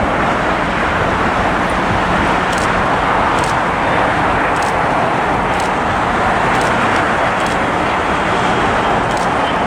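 Steady roar of road traffic, unchanging throughout, with a faint high tick about once a second.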